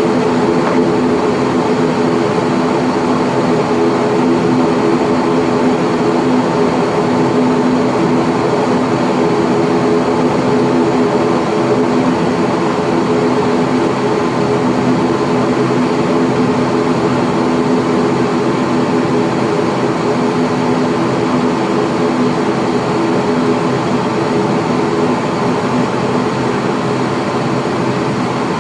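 Cabin sound of an ATR42-600 turboprop with its Pratt & Whitney PW127M engines at high power: a loud, steady propeller drone with several steady low hums over a broad rush of noise.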